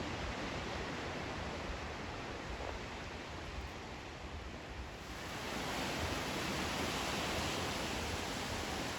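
Sea surf rushing on the beach, a steady noise that swells louder and brighter about five seconds in as a wave comes in.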